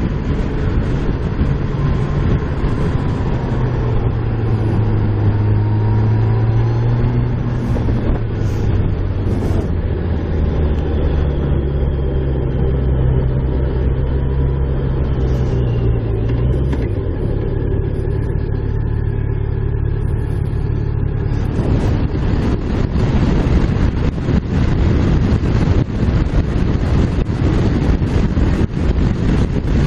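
Motorcycle engine running under way with wind noise on the microphone; the engine's note shifts and drops away a little past halfway, and the wind rush gets much heavier about two-thirds of the way through.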